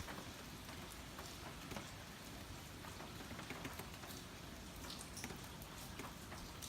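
Steady typhoon rain, with scattered drops ticking and pattering on a hard surface.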